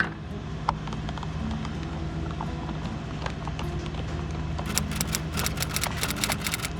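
A steady low mechanical hum, with a fast run of small sharp clicks, about eight to ten a second, starting near the end and lasting a couple of seconds, from hand work on the freezer's compressor wiring.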